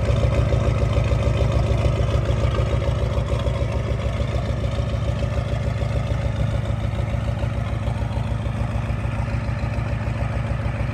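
Ford 7.3 IDI V8 diesel idling steadily with an even, rapid clatter, shortly after a cold start.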